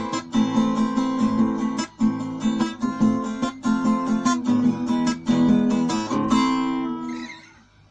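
Acoustic guitar strummed in a steady rhythm, playing the closing chords of a song. The last chord rings on and fades away near the end.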